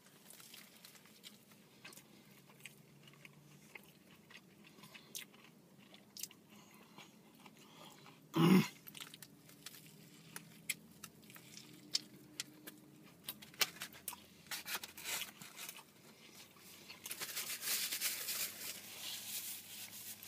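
A person biting into and chewing a breaded fried chicken sandwich, with scattered crunches and mouth clicks. One much louder short sound comes about eight and a half seconds in.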